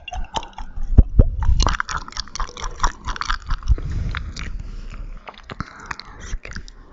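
ASMR mouth sounds: a dense, irregular run of wet clicks and smacks from the tongue and lips, with the sharpest click about a second in.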